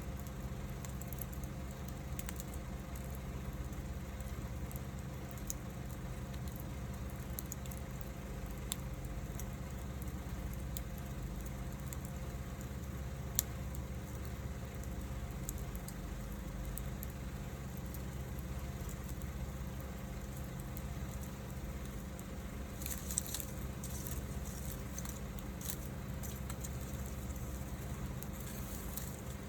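Wood fire burning, with scattered sharp crackles and pops over a steady low rumble. One pop stands out about halfway through, and a quick run of crackles comes near the end.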